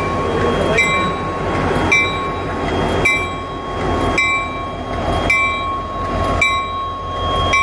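Union Pacific diesel locomotives passing at close range, with a steady low engine and wheel rumble. Over it a grade-crossing bell strikes about once a second, each strike ringing briefly.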